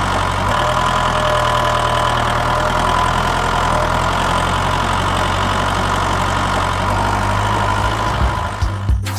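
A motor running steadily with an even hum and a held whine, cutting off suddenly near the end.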